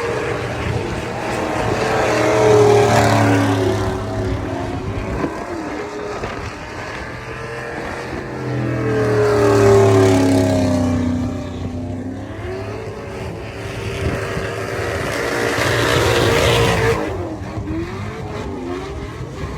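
A truck engine revving hard three times, each time climbing in pitch to a peak and then dropping back.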